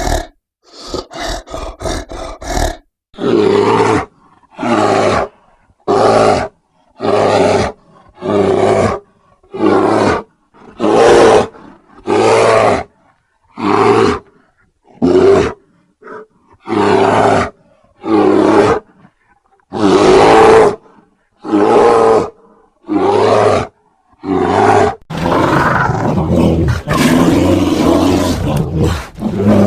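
Grizzly bear roaring and growling: a few quick short grunts, then a long series of short roars about one a second, each cut off sharply, then unbroken growling from about 25 seconds in.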